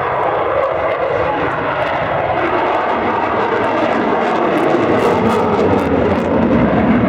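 Jet aircraft engine noise from a flying jet, a steady rushing sound that grows slightly louder near the end.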